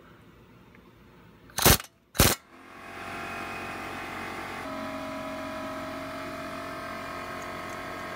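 Impact wrench firing two short, loud bursts about half a second apart, driving the brake caliper bracket bolts home. A steady hum of held tones follows; it shifts pitch partway through and runs on to the end.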